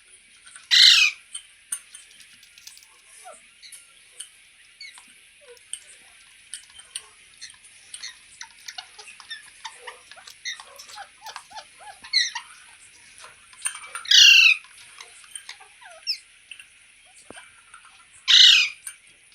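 Green parrot giving three loud harsh screeches, each about half a second long: one near the start, one about two-thirds of the way through, and one near the end. Soft short chirps and clicks come in between.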